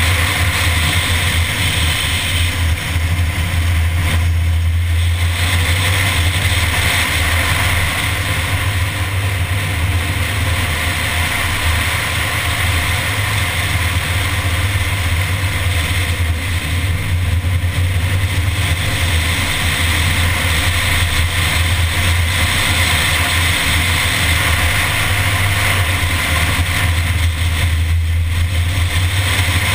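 A Mini's engine running steadily at road speed, heard with wind rushing over a hood-mounted camera. The sound eases briefly about three times.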